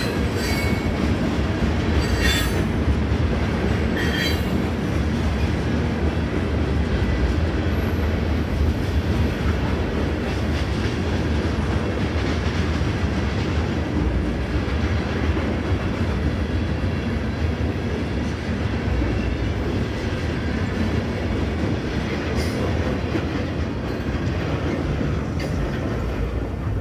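Freight train of covered hopper cars rolling past at a grade crossing: a steady rumble of steel wheels on rail, with brief wheel squeals in the first few seconds. The last cars clear near the end.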